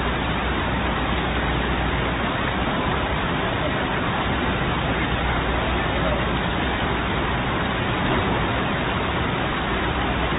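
Floodwater rushing, a steady even hiss with no breaks.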